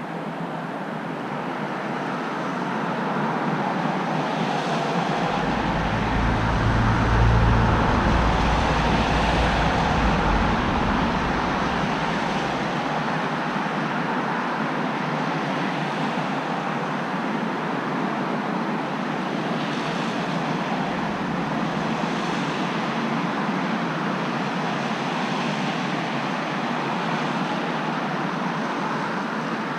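Road traffic passing under a steady hiss; a heavier vehicle goes by with a low rumble between about five and twelve seconds in, the loudest moment.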